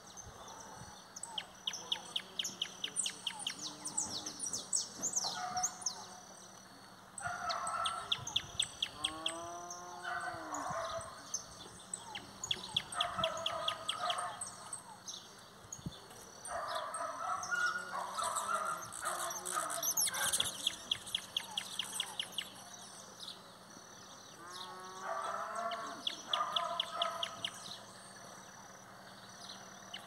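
Several birds calling at once in the countryside: runs of short, sharp high chirps that come back every few seconds, with bursts of lower calls of short arching notes in between.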